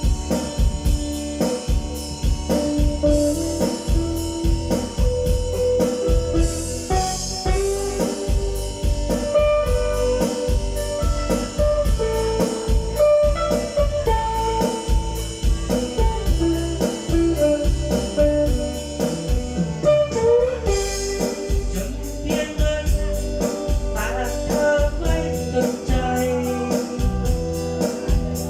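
A guitar-led song with drums and heavy bass, played through an outdoor PA rig of subwoofer and hanging line-array cabinets as a warm-up system check.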